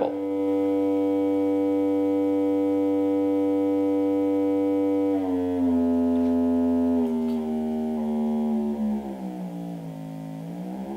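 Steady electronic test tone from a tone-generator app, played through a small amplifier and speaker. It holds one pitch for about five seconds, then slides down in a few steps and a smooth glide to roughly half its starting pitch near the end.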